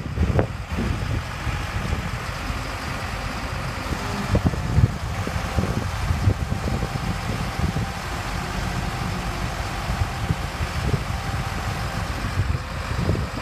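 Kodiak boom truck's engine idling steadily with a low rumble.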